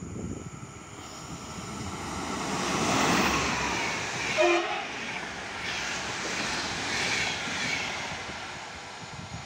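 Electric-hauled PKP Intercity passenger train running through a station at speed, with rushing wheel and air noise that swells as it passes. A short horn blast sounds about four and a half seconds in.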